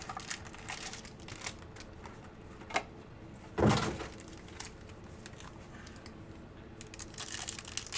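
Light handling noises on a tabletop as trading card packs and cards are handled: scattered small clicks and ticks, a sharp tick a little before the midpoint and a louder brief knock just after it.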